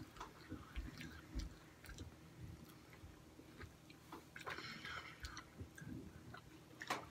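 Faint chewing and mouth sounds of people eating fries and chicken nuggets, with small scattered clicks and taps. There is a brief rustle about halfway through.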